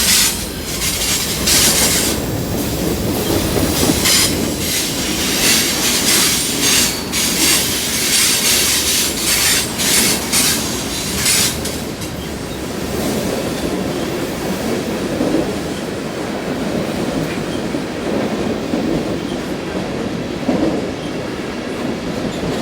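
Freight cars of a Canadian National train rolling past, their wheels clattering over the rail joints with sharp, high-pitched bursts for the first dozen seconds. After that the sound settles into a steadier, duller rumble of cars rolling on.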